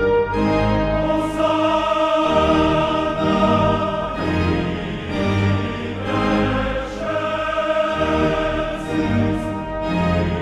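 Choral and orchestral music: a choir sings sustained chords over an orchestra.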